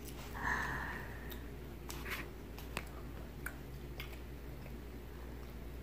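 Quiet room with a toddler chewing bread: faint scattered mouth clicks and small ticks, with a short breathy sound about half a second in, over a low steady hum.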